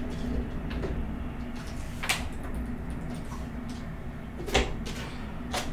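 Close-miked eating sounds: a person eating spicy ramen noodles, giving a few sharp clicks and smacks, the loudest about two seconds in and two more near the end, over a low steady hum.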